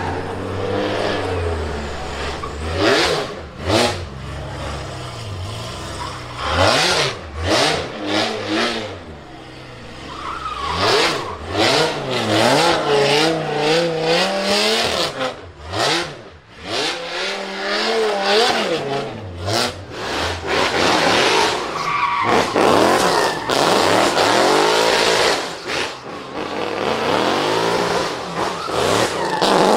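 Drift car engine revving hard, its pitch climbing and falling again and again with sudden drops as the throttle is lifted, while the tyres squeal through the slides.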